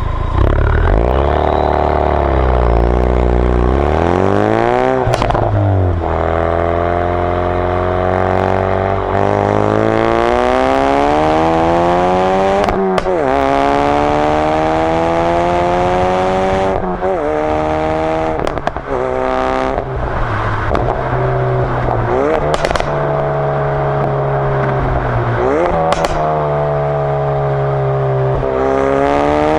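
Mk3 2016 Ford Focus RS's turbocharged 2.3-litre four-cylinder exhaust, heard from a microphone at the rear of the car, as it drives and accelerates through the gears. The engine note climbs in pitch several times, and each climb is broken at the gear change by a short, sharp crack.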